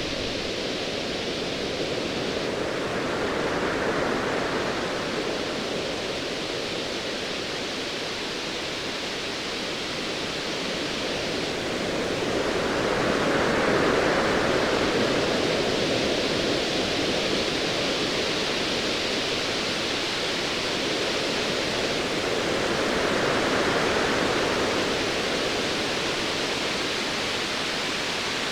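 Steady hiss of ocean waves, swelling and easing about every ten seconds.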